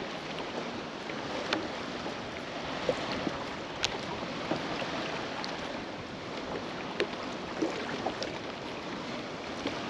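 Steady wash of water and wind around a kayak on open water, with a few faint sharp clicks and knocks scattered through it.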